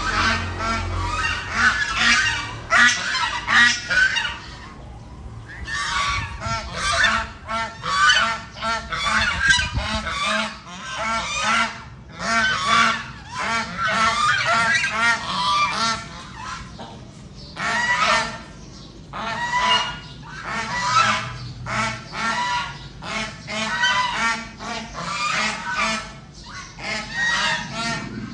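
Geese honking over and over in dense bursts of overlapping calls, with brief lulls between the bursts.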